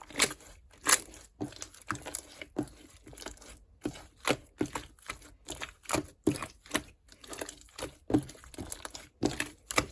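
Green clear slime being squeezed and pressed by hand, giving a run of wet squishy pops and clicks about two a second.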